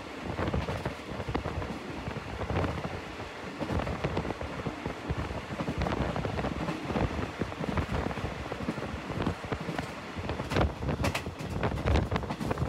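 Passenger train running along the track, heard on board: a steady rumble and rattle of wheels on rails with wind noise, and a run of sharp clicks near the end.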